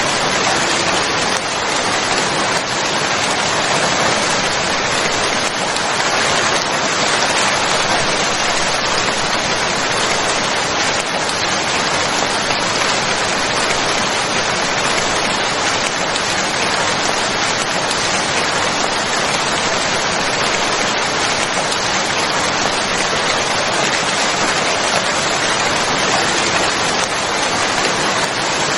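Steady, even rain falling, a continuous hiss with no breaks or single drops standing out.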